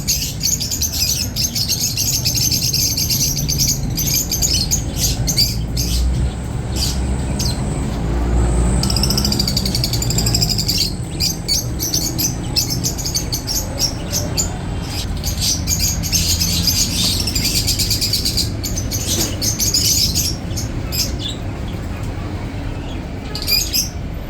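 Many caged birds chirping and tweeting at once in a dense, continuous chorus of rapid high calls, with a few harsher squawks.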